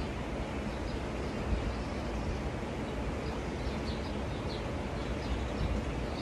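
Small birds chirping in quick, repeated short high notes over a steady low rumbling background noise.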